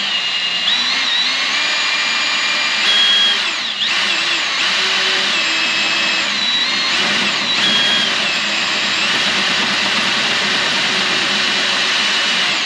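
Electric drill running under load with a center drill bit cutting into metal: a steady motor whine whose pitch sags and recovers a few times, most plainly about four and eight seconds in, as the bit bites. The bit is cutting poorly.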